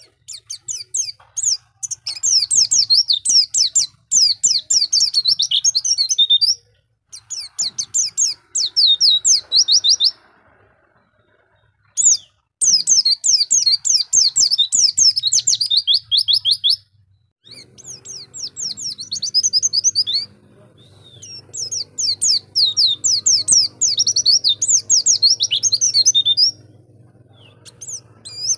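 A pleci (white-eye) sings rapid, high twittering phrases, each a fast run of quick falling notes lasting a few seconds, with short pauses between phrases. A faint steady low hum sits underneath.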